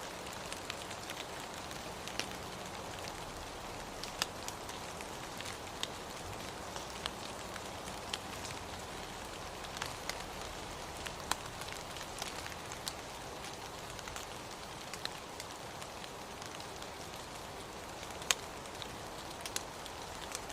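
Steady rain, a continuous hiss with scattered sharp drops striking a surface.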